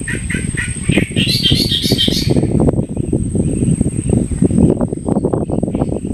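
Birds calling: quick repeated chirps, then a brighter burst of call notes about a second in, with fainter calls later on. Under them run a loud, uneven low rumble and a steady high-pitched whine.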